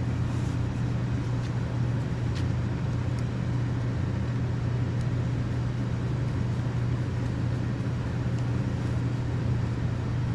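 Steady low mechanical hum from running machinery, unchanging, with a few faint light clicks.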